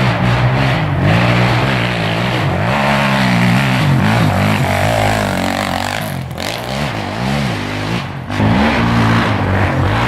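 Big-bore Suzuki LT-Z400 single-cylinder four-stroke quad engine (a 440 build) running hard on a motocross track, its pitch rising and falling as the throttle is worked. The throttle briefly closes about six seconds in and again about eight seconds in before it picks back up.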